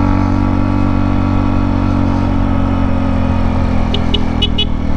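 Motorcycle engine running steadily under load at an even pitch while climbing a steep uphill road.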